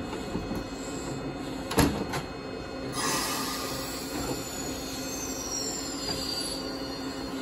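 Eizan Railway electric train (car 721) at a platform: a sharp knock about two seconds in as a door shuts, then the train pulls away with a thin high squeal sliding down in pitch over a steady low hum.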